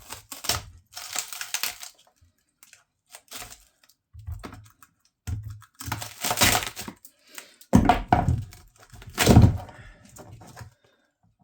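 Boiler casing panels being pried and split apart with a panel-splitting tool: a run of cracks and thunks, the loudest about six, eight and nine seconds in.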